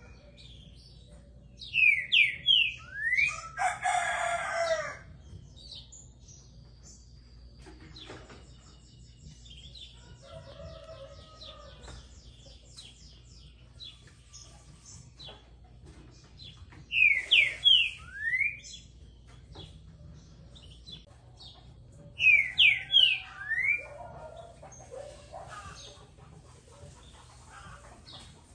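Green-winged saltator (trinca-ferro) singing: three short, loud phrases of clear, slurred whistled notes, about two seconds in, past the middle, and again a few seconds later. A harsher, denser call follows the first phrase, and faint chirps of other birds and a low steady hum lie underneath.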